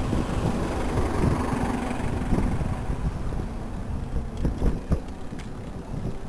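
City traffic and wind on the microphone of a moving bicycle: a steady low rumble of vehicles with wind buffeting.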